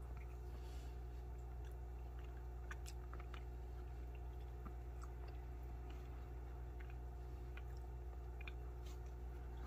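Faint chewing, and scattered small clicks of a plastic spoon scooping soft food from a plastic bowl, over a steady low hum.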